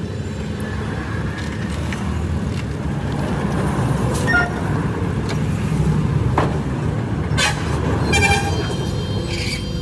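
Road traffic rumbling past steadily, with short vehicle-horn toots, the clearest near the end.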